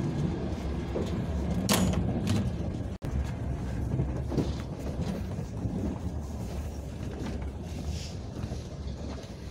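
Steady low rumble of a passenger train car running, heard from inside the sleeper car, with a couple of sharp clicks about two seconds in. The sound cuts out for an instant about three seconds in.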